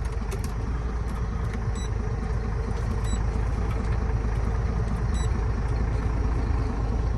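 Heavy truck's diesel engine running steadily, heard from inside the cab, with three faint short high beeps during it.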